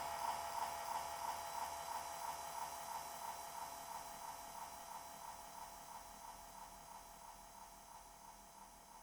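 Gecho Loopsynth V2 toy synthesizer giving a steady, hissing noise drone with a brighter mid-pitched band, fading slowly and evenly.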